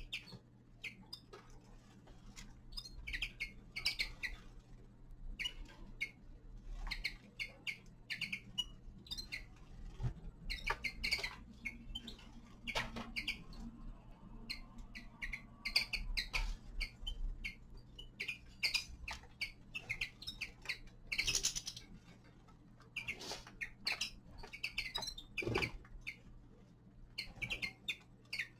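Small finches chirping and calling in short, high notes that come thick and fast throughout, mixed with sharp clicks.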